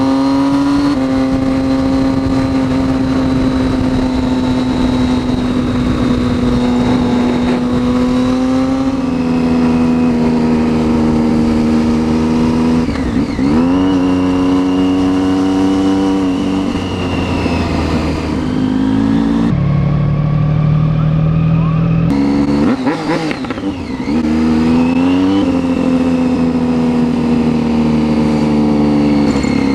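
Motorcycle engine running at a steady cruising speed while riding. The pitch dips and climbs back a few times as the throttle is rolled off and on, around halfway and again in the second half.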